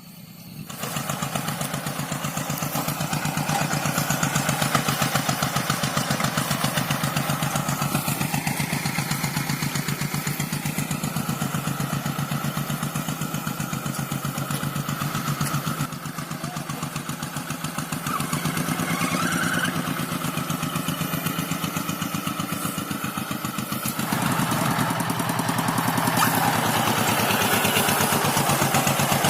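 A two-wheel hand tractor's engine runs under load while ploughing dry paddy soil, with a fast, even chug. The level dips briefly around the middle and rises in the last few seconds.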